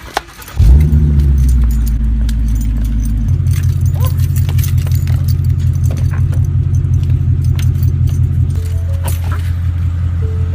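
2015 Ford Mustang GT's 5.0-litre V8 cranking and catching about half a second in, running at a loud fast idle that drops to a lower, steady idle about three seconds later.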